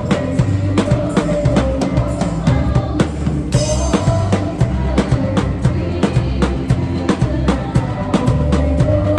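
Drum kit playing a steady groove of kick and snare hits along with worship music, heard as room sound through a phone's microphone. A cymbal crash comes in about three and a half seconds in.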